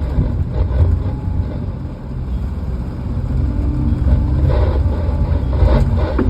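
Heavy logging equipment's diesel engine running with a steady low rumble.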